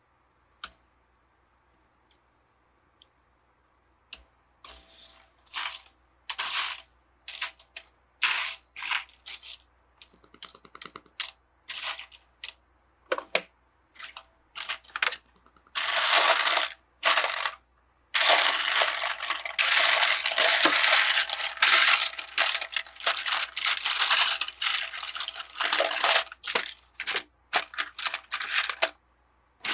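Loose plastic Lego bricks clattering as a hand rummages through a pile of pieces, in short bursts that run together into a near-continuous rattle in the second half.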